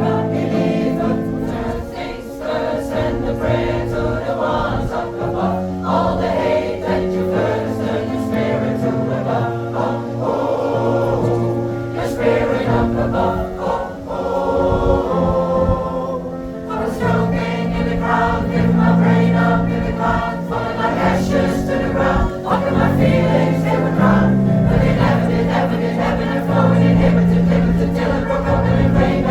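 Pop choir singing with musical accompaniment: held choral chords over a steady bass line and beat.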